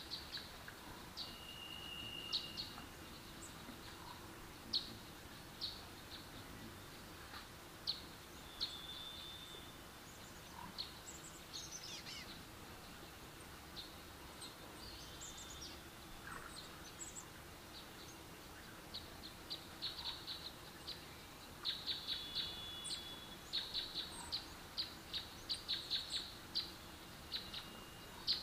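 Faint chirping of small birds in short, irregular high chirps, growing quicker and louder in the last several seconds, with one held whistled note about two seconds in.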